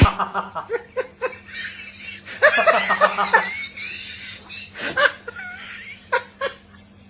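Laughter: a run of short laughs, the loudest outburst about two and a half seconds in, trailing off near the end.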